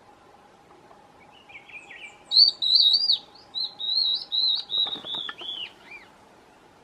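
A songbird singing one high, warbling, twittering phrase of about four seconds, starting about a second and a half in. A faint steady hum sits beneath it.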